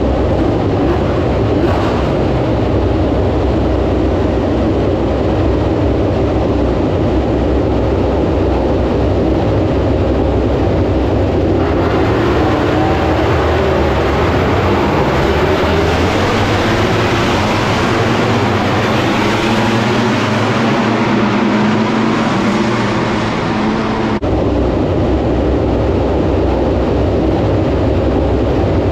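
MotoGP racing motorcycles running at speed, their engine pitch rising and falling as they pass, over a constant loud roar. The sound changes abruptly about 12 s in and again near 24 s.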